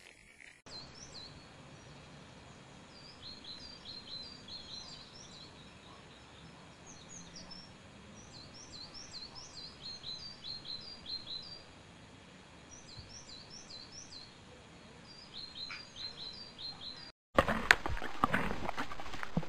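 Small birds chirping: quick, high notes in clusters over a faint outdoor hiss. Near the end the sound cuts off abruptly and gives way to louder knocking and clatter.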